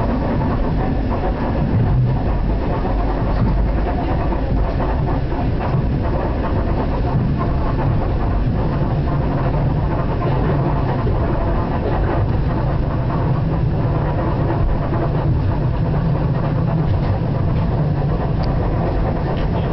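Steady running noise of a moving electric passenger train, heard from inside the carriage: wheels on the rails and the car's body noise, even throughout.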